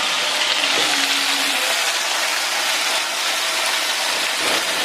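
Chilies and tomatoes frying in oil in a pan, a steady sizzle.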